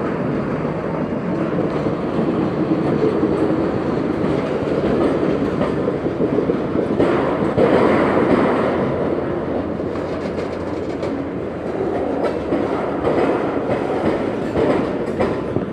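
Freight train cars rolling slowly past, a continuous rumble with the clickety-clack of wheels over rail joints.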